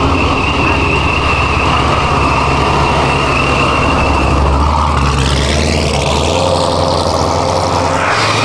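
Car engine idling steadily with a deep low hum and a high whine that holds for about four seconds, then a second whine rising in pitch over the last few seconds.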